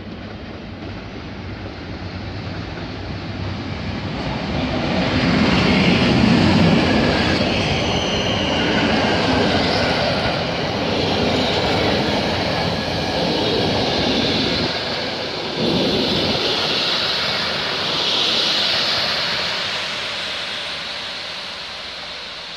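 Passenger train hauled by an EP07 electric locomotive passing close by: the rumble builds and is loudest as the locomotive goes past about six seconds in. The coaches then roll by with a steady rumble and a high squeal from the running gear, and the sound fades as the train pulls away.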